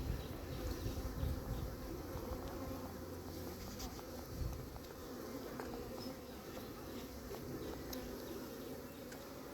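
A honeybee swarm buzzing steadily, many bees flying around the cluster.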